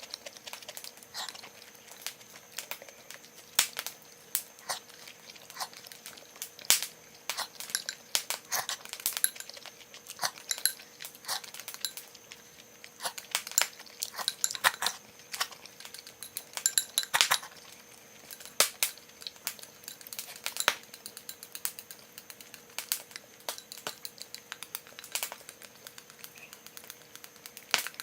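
Wood fire in a small Firebox stove crackling, with irregular sharp snaps and pops.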